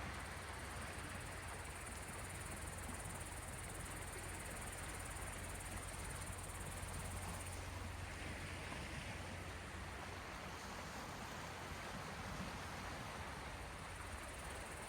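Steady sea-shore ambience of the Gulf of Finland: small waves washing gently, over a constant low rumble. A faint high hiss fades out about halfway through.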